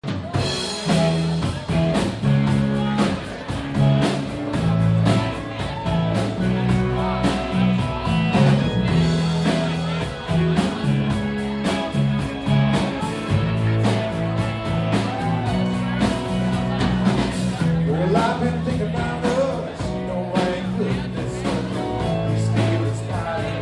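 Live band playing a bluesy rock song, with a moving bass line under guitar and a steady drum beat.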